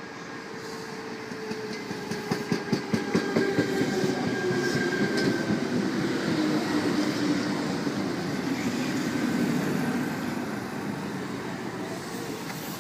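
A Sydney Trains C-set double-deck electric train slowing into the platform. Its wheels click over rail joints in the first few seconds, and the traction motor whine falls steadily in pitch as it brakes.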